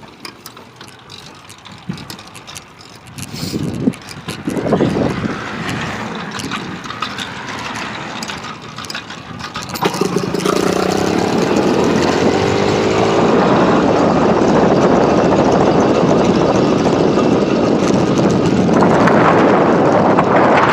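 Motorized bicycle's small engine: fairly quiet at first, a few revs rising and falling about three to five seconds in, then from about ten seconds in running loud and steady as the bike rides, swelling again near the end.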